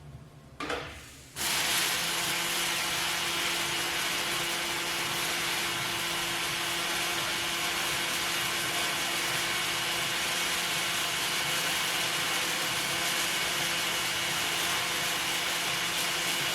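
Pulsed welding arc burning steadily: a dense hiss with a steady hum in it, which starts abruptly about a second and a half in and cuts off just before the end.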